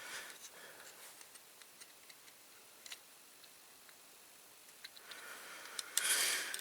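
Faint light clicks of small metal parts being handled, then a short rasping scrape near the end as the rivet on a diecast toy car is worked from the back.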